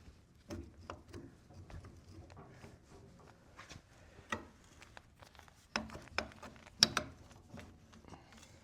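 Scattered light clicks and knocks of steel tractor parts and hand tools being handled while a steering bracket is fitted, with a few sharper metal clinks near the end, the loudest about seven seconds in.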